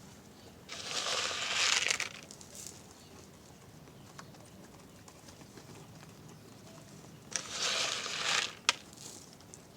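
Pigeons flapping their wings in two flurries, each lasting about a second: one about a second in, another near the end, followed by a sharp clap.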